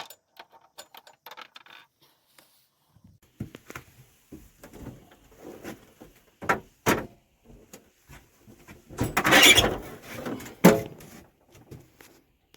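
Scattered clicks, knocks and rattles of objects being handled, with a louder, rushing burst of about a second about nine seconds in and a sharp knock just after it.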